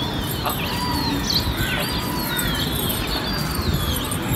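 Birds chirping with repeated high, falling whistled calls, several a second, over a steady low rumble.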